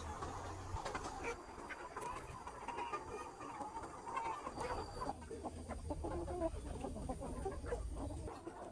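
A flock of chickens, likely the farm's capons, clucking and calling in many overlapping short calls.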